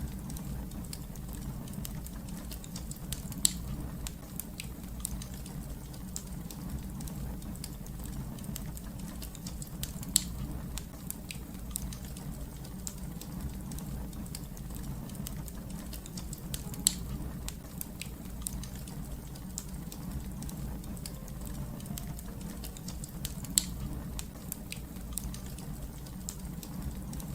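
Wood fire crackling: constant small clicks and pops over a steady low rumble, with four louder snaps spaced about seven seconds apart.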